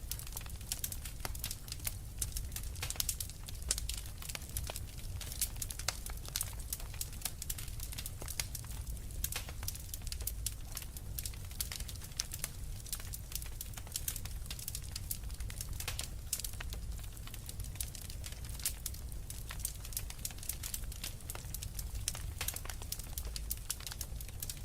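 Burning logs crackling in a fireplace: frequent sharp snaps and pops, irregular and dense, over a low steady rumble.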